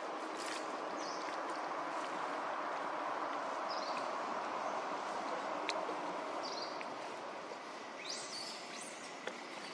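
Outdoor ambience: a steady, even background noise with a bird giving short high chirps every two to three seconds, four in all, the strongest near the end, and a couple of faint clicks.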